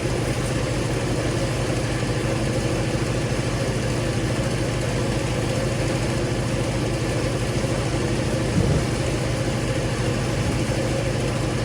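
Engine of an Allwood Musclewood log splitter running steadily, with a brief louder moment about eight and a half seconds in.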